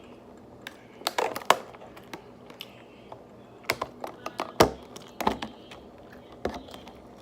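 Irregular sharp clicks and taps, some in quick little clusters, from handling plastic food packaging and containers.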